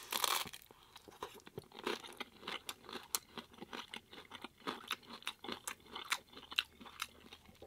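A bite into a crisp hard corn taco shell right at the start, then crunchy chewing of the shell close to the microphone, with many short crackling crunches throughout.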